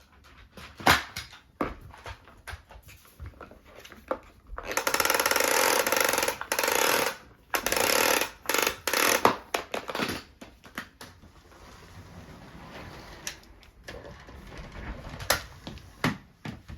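Vacuum cleaner switched on about four and a half seconds in, running loudly in several stretches broken by brief drops, then going quieter. Scattered knocks and clicks come before it starts and again near the end.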